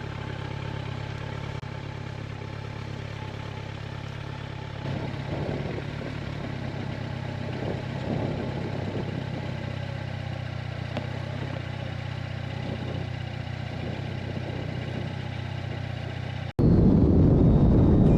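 Motorcycle engine idling steadily. Near the end it cuts abruptly to a much louder, rough rushing noise, like wind on the microphone while riding.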